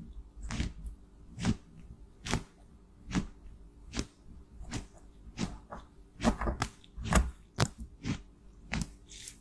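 Cosmetics being crushed: a series of short crunchy clicks, a little more than one a second, with a quicker cluster about six seconds in.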